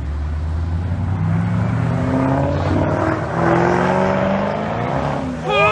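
Ford Mustang's engine revving hard as the car accelerates away, its pitch climbing. Voices cry out just before the end.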